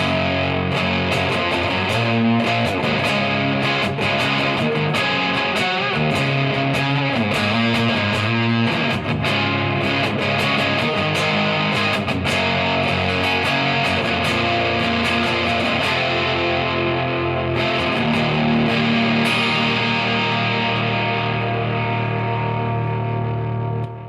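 Electric guitar, a Gibson Les Paul with humbuckers played through a Third Eye overdrive pedal into a Marshall amp, playing a run of distorted notes and chords. It then lets one chord ring out over the last few seconds.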